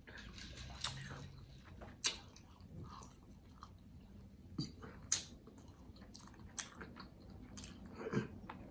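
A person chewing a mouthful of pretzel-bun double cheeseburger with cheese sauce: soft wet chewing with scattered sharp smacks.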